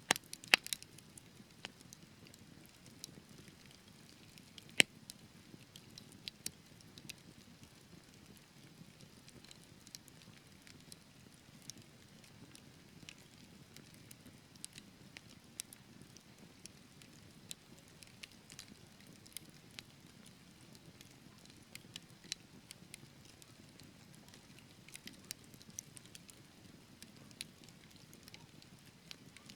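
Wood fire burning in a fireplace: a soft low hiss of flames with irregular crackles and sharp pops from the burning logs, the loudest pops about half a second in and near five seconds.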